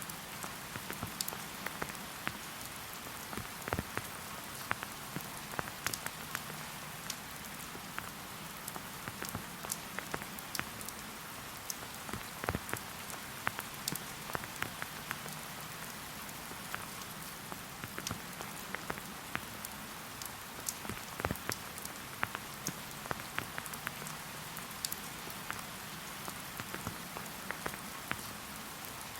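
Steady rain falling, an even hiss with many separate drops tapping close by.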